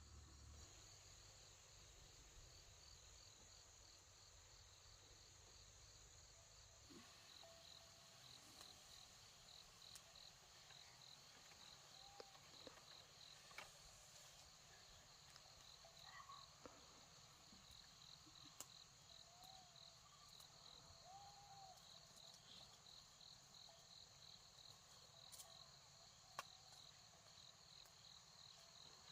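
Faint insects chirping: a high, evenly pulsed trill over a steady high whine, with a few soft clicks.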